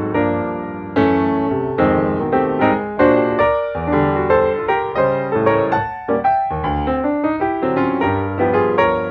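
Background music: solo piano playing a gentle melody with chords.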